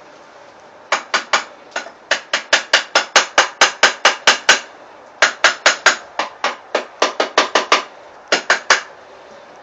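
Blacksmith's hammer striking a hot steel bar on the anvil in fast runs of about five or six ringing blows a second, with short pauses between runs, while the curl of a drive hook is forged.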